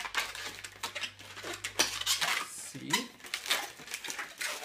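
Inflated latex twisting balloon squeaking and rubbing as it is bent and twisted by hand, a quick run of short squeaks and creaks.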